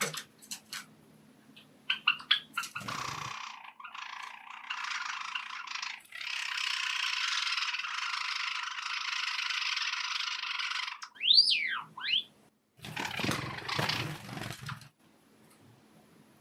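Pet Java sparrows: scattered clicks and short chirps, a steady hiss lasting about five seconds in the middle, then a sweeping up-and-down call about eleven seconds in, followed by a couple of seconds of rustling.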